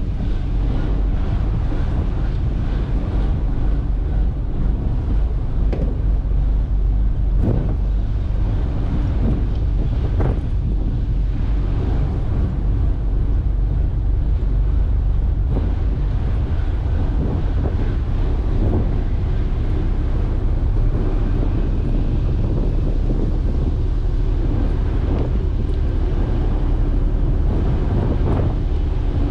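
Strong wind buffeting the microphone, a steady heavy low rumble with occasional gusts.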